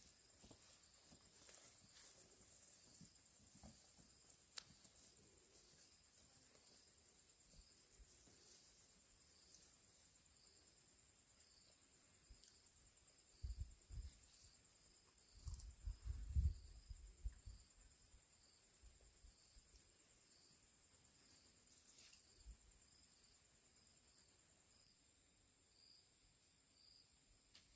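Cricket trilling: a steady, fast-pulsing high-pitched trill that cuts off suddenly near the end. A few faint low thumps come about halfway through.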